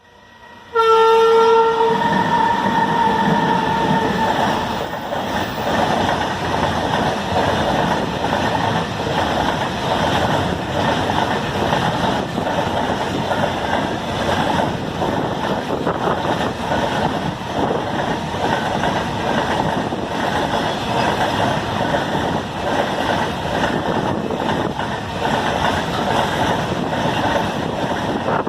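Alstom WAG-12B electric locomotive sounding its horn in a blast about a second in, followed by the steady rumble and wheel clatter of a loaded coal freight train passing.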